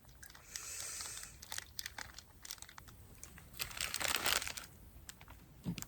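Plastic food packaging crinkling and rustling as it is handled, with scattered small clicks and a louder rustle about four seconds in.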